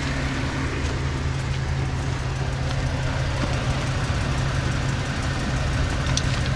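Off-road vehicle's engine idling steadily, a continuous low hum, with a few faint clicks over it.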